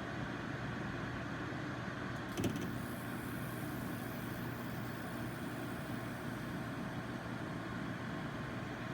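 SereneLife portable air conditioner running, a steady fan rush with a low hum. A click comes about two and a half seconds in, and the hiss is a little brighter after it.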